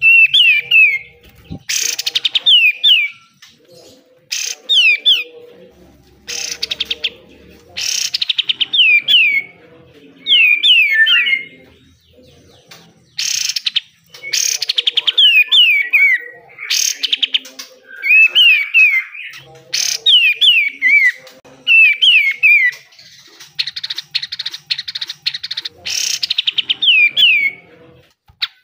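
Kapas tembak songbird singing in repeated short phrases: quick runs of falling whistled notes alternating with harsh, very rapid rattling bursts, the 'besetan' that keepers prize in a bird in full song ('gacor').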